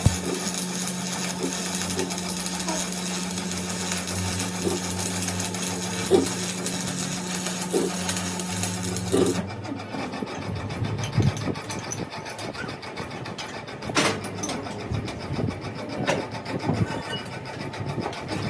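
A motor-driven machine or power tool running steadily with a constant hum and hiss, cutting off abruptly about nine seconds in; after that, scattered sharp knocks and clicks, with one louder knock about fourteen seconds in.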